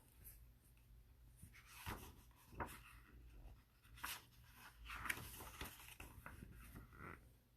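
Faint paper rustling with a few soft taps, picture-book pages being handled and turned.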